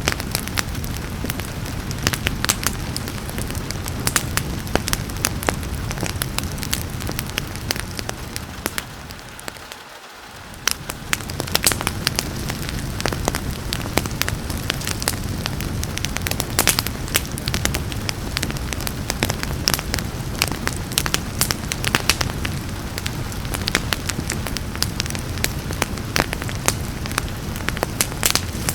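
Wood fire crackling with frequent sharp pops over a steady hiss of rain. The whole sound fades down and back up about ten seconds in.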